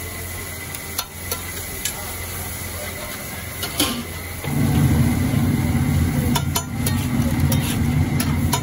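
Oil and masala sizzling on a large flat tawa griddle, with a metal spatula scraping and tapping on the hot metal a few times. About halfway through, a louder low rumble joins in.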